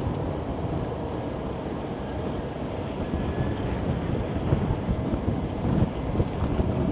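Strong gusty wind rumbling over the microphone, with street traffic noise underneath.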